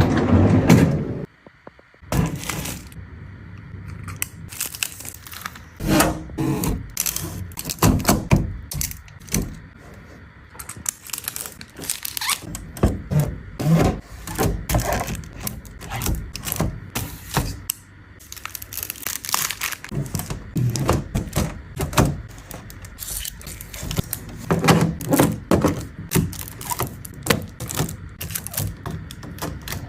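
Food containers and packages being handled and set down on fridge shelves: an irregular run of knocks and thunks with some plastic crinkling.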